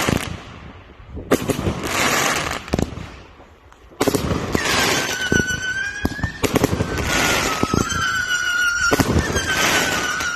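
Fireworks going off: two short bursts of crackling and bangs, then about four seconds in a continuous barrage of cracks with a shrill whistling tone running over it that sinks slightly in pitch.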